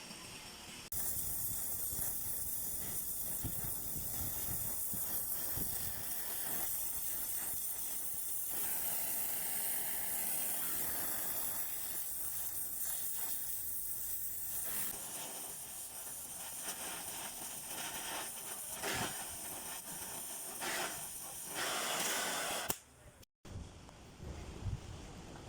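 Gas torch flame hissing steadily as it heats the area around a broken exhaust manifold bolt. The hiss starts about a second in and cuts off near the end.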